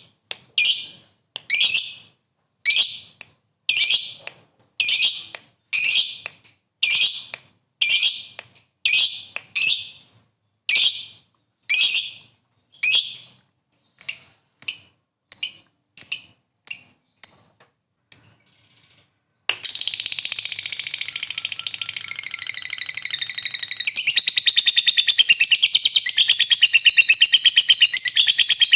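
A lovebird calling: a string of short shrill calls about one a second, growing shorter and quicker, then breaking into one long unbroken rapid high-pitched chatter, the 'ngekek panjang' that lovebird keepers prize.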